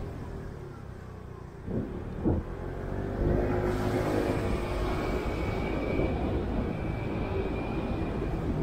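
Road traffic heard while riding through city streets, with a steady low rumble. Two short knocks come about two seconds in, then a steady whine sets in from about three seconds.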